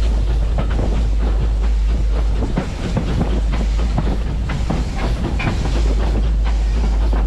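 A train moving along the track: a steady deep rumble with irregular clattering and clanking throughout.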